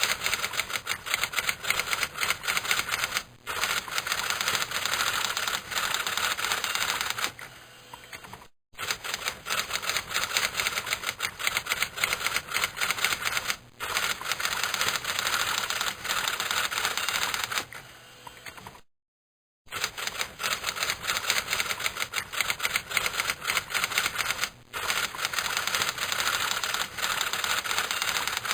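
Typewriter being typed on: rapid key strikes clacking in long runs, with short pauses between them.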